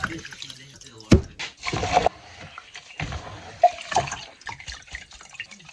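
Water splashing, with irregular knocks and clinks.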